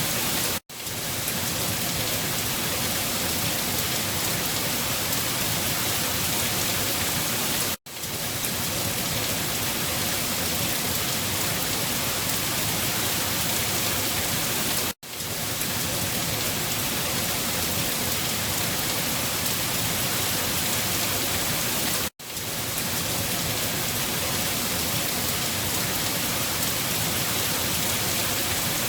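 Steady rain, an even hiss, that cuts out sharply for a moment about every seven seconds and swells back in.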